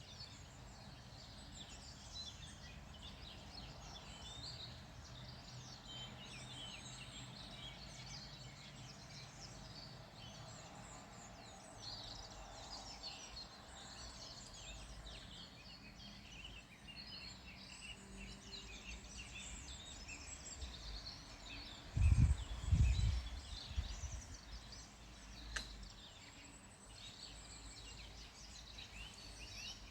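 Several small birds singing together, a dense chorus of quick chirps and trills. About two-thirds of the way through, a loud low rumble lasts a couple of seconds.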